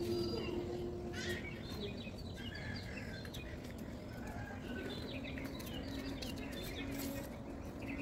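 Small birds chirping and calling repeatedly over a steady low outdoor background noise.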